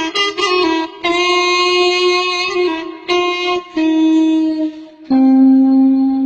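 Homemade carrot clarinet, a hollowed carrot with finger holes blown through a saxophone mouthpiece, playing a slow line of held reedy notes that step downward, with short breaks between them.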